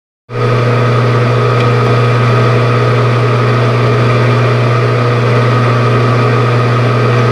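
Metal lathe running steadily with a strong low hum and a layer of steady higher gear and motor tones, starting abruptly about a third of a second in.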